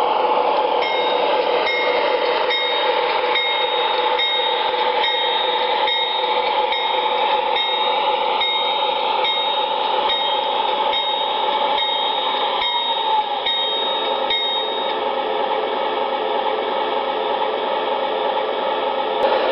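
Train running steadily while its locomotive bell rings in a steady rhythm, a little more than once a second. The bell stops about 15 seconds in and the running sound carries on.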